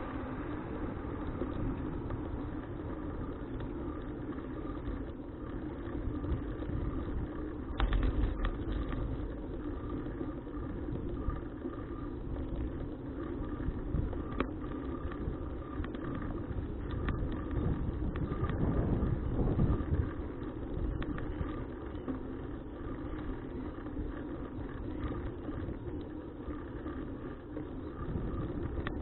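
Steady wind and tyre noise from a bicycle being ridden, picked up by a bike-mounted action camera, with a louder surge about eight seconds in and another swell around nineteen seconds.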